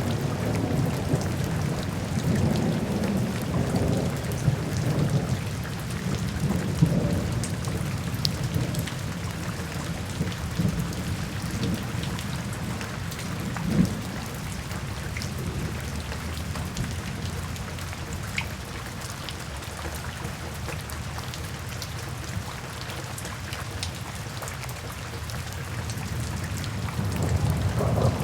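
Steady rain with low, rolling thunder rumbles that swell over the first several seconds and again near the end, and a few brief sharper hits.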